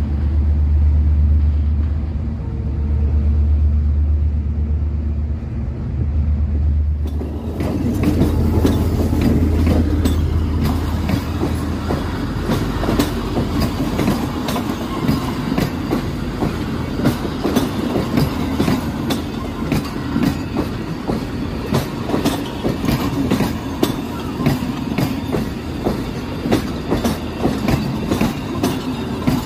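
Passenger train coaches rolling past close by, the wheels clicking and clacking over the rail joints, starting abruptly about seven seconds in. Before that there is only a low rumble.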